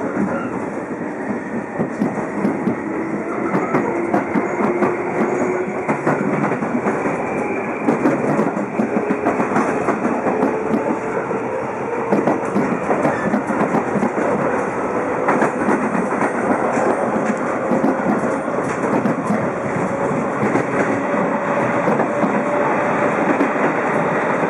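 JR East 211 series electric multiple unit running under power, heard from its motor car: the MT61 traction motors whine in one tone that climbs slowly and evenly as the train gathers speed, over a steady running rumble and wheels clicking across rail joints.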